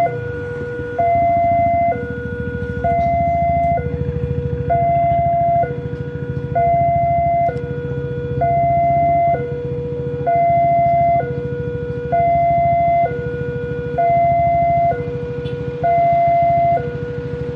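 Railway level-crossing warning alarm sounding a two-tone electronic signal, a higher and a lower tone taking turns about once a second, over a steady low rumble.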